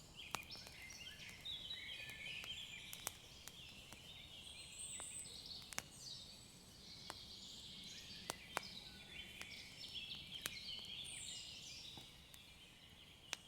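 Faint wood fire crackling, with irregular sharp pops every second or so, over faint birdsong chirping.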